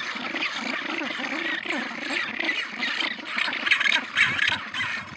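A colony of penguins calling, many voices overlapping in a dense chorus of squealing, braying calls.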